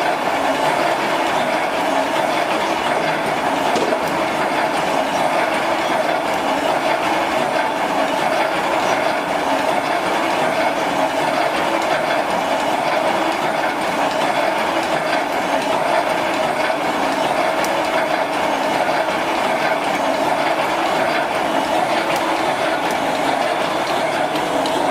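Automatic welded wire mesh machine running with a steady, unbroken mechanical noise.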